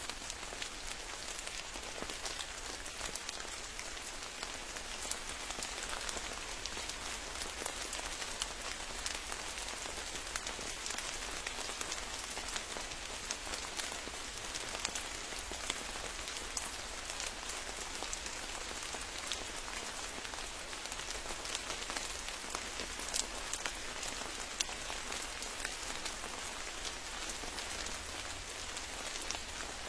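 Steady rain falling, a dense even hiss with many single drops ticking sharply on top.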